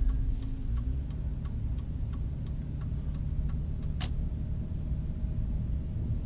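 Inside a moving vehicle: low engine and road rumble with a steady light ticking about three times a second, the turn-signal flasher clicking. One sharper click about four seconds in.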